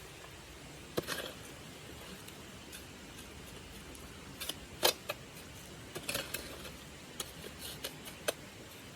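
Scattered light clicks and taps at irregular intervals, about ten in all, the sharpest about five seconds in, over a faint steady hiss.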